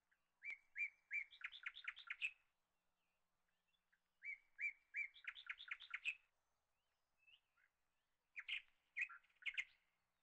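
A songbird singing: two songs, each a few clear notes that speed up into a quick run rising in pitch, then a few short separate chirps near the end.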